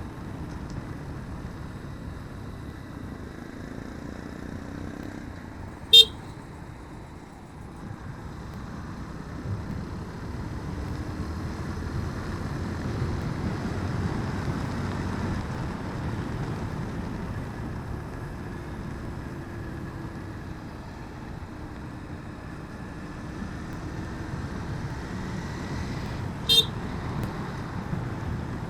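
Motorcycle riding along a road, with steady engine and road noise and two short, loud horn toots, one about six seconds in and one near the end.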